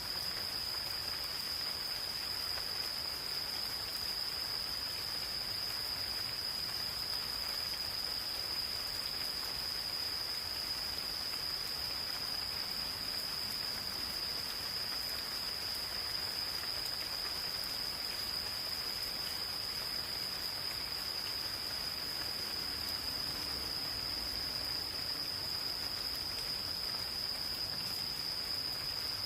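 Insects calling in one steady, unbroken high-pitched trill over the even hiss of gentle rain.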